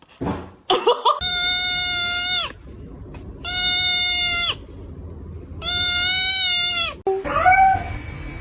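An animal calling: three long, even-pitched cries about a second apart, each held for over a second, then a shorter cry that rises and falls near the end.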